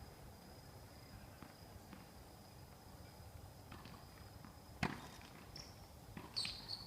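Faint knocks of tennis play, with one sharp ball strike about five seconds in, over a thin steady high tone.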